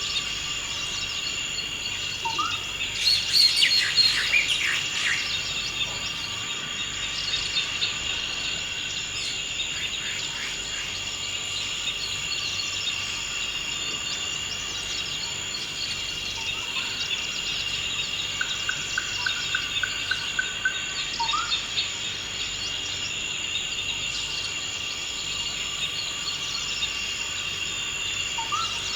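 Forest ambience: a steady high insect drone with birds calling over it. There is a burst of chirps about three seconds in, a short rapid trill around the two-thirds mark, and a brief rising note that comes three times.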